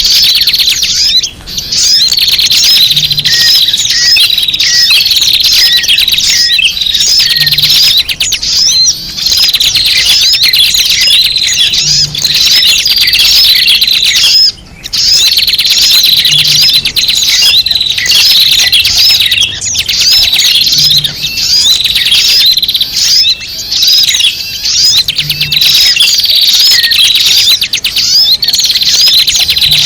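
A flock of small birds chattering noisily, many high-pitched chirps overlapping without pause, of the kind used as a lure call to draw small birds in. The chorus breaks off briefly twice, once near the start and once about halfway.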